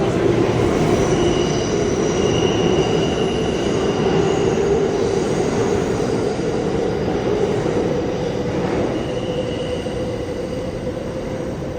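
Subway train running on the rails: a steady loud rumble with high wheel squeals that come and go several times, easing slightly near the end.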